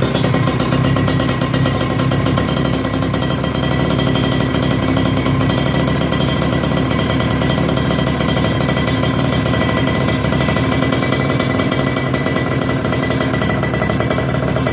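Two-stroke Kawasaki Ninja motorcycle engine running steadily through an aftermarket stainless-steel Creampie exhaust.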